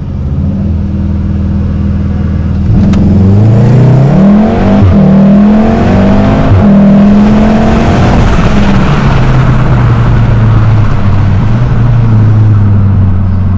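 Mk7.5 VW Golf R's turbocharged 2.0-litre four-cylinder engine holding steady revs, then accelerating hard in a 0–60 mph run: three rising sweeps, each ending in a quick drop at a gear change. It then settles to a steady cruise. The driver thinks his foot was not fully down on this run.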